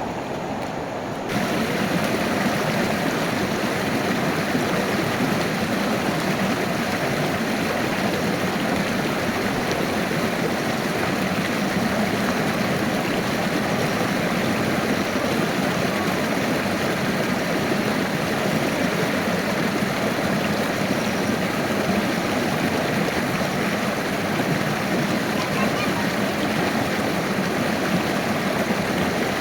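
Stream water rushing steadily. It gets louder about a second in, then stays even.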